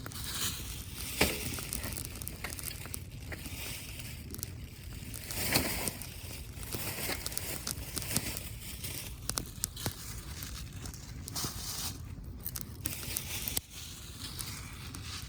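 Crinkling and rustling handling sounds with scattered sharp clicks and knocks, the loudest about a second in and again near the middle.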